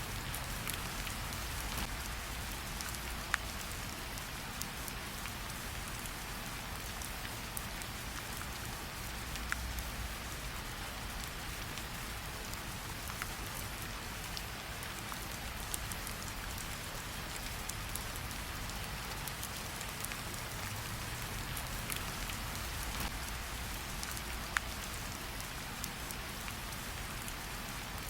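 Steady rain falling, with a low rumble underneath and occasional single sharp pops of a crackling campfire.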